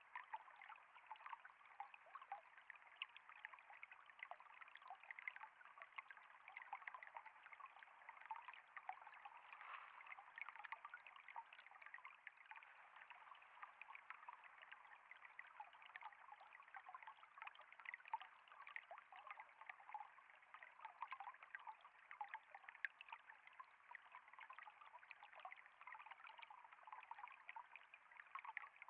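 Faint, steady trickle of flowing water, with many small splashes and drips over it.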